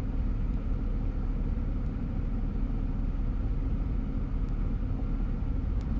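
Steady road noise of a moving car heard from inside the cabin: engine and tyres as an even low rumble, with a few faint ticks.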